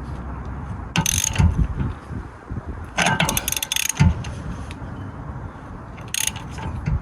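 Hand ratchet wrench clicking in three short rapid bursts, mixed with dull knocks of metal parts being handled.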